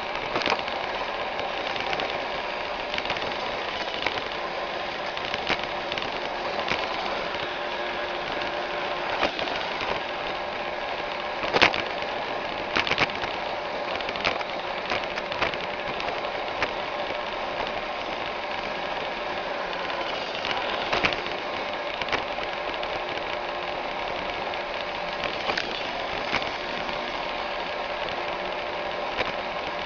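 iRobot Roomba 610 robot vacuum running: a steady whir from its motors and brushes. Scattered clicks and knocks cut through it, the loudest about a third of the way in.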